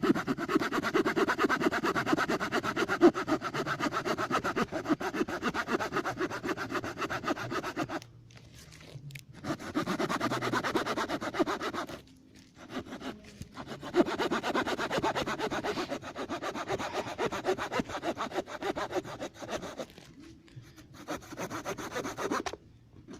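Small log being cut with the folding saw blade of a Victorinox Ranger Wood 55 pocket knife: quick back-and-forth strokes in three bouts, with two short pauses about eight and twelve seconds in.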